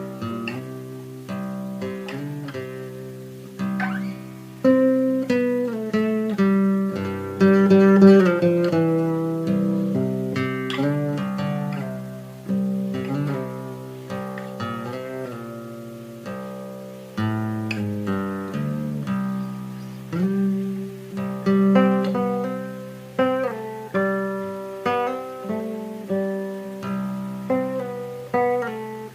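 Acoustic guitar played freely, an improvisation of plucked and strummed notes and chords, each attack ringing out and fading.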